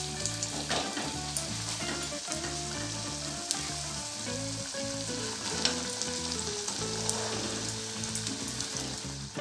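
A vegetable spring roll shallow-frying in hot oil in a metal kadai: a steady sizzle with occasional pops of oil.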